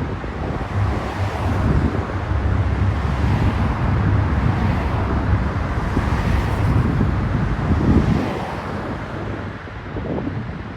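Long intermodal freight train rolling past, a steady rumble of wheels on rail with a low hum that drops away about eight seconds in, and wind buffeting the microphone.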